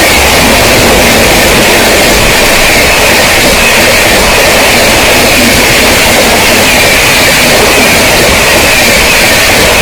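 Express train passing at speed close by: a loud, steady rush of coaches and wheels on rails.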